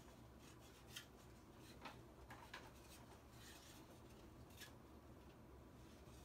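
Minka Aire Concept II ceiling fan running, heard as a faint steady low hum, with scattered faint light ticks.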